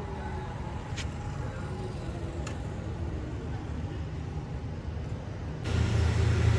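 Roadside traffic noise with faint voices in the background and a couple of sharp clicks. Near the end a louder low engine-like drone starts abruptly.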